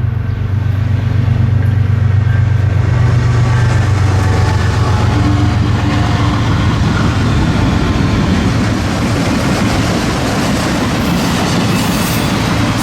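Freight train led by three diesel locomotives running past: a steady low engine drone at first, then rising rolling wheel-and-rail noise as the train goes by.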